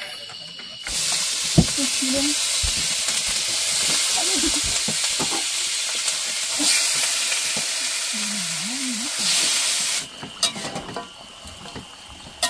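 Food sizzling loudly in hot cooking oil. It starts suddenly about a second in and stops abruptly near the end.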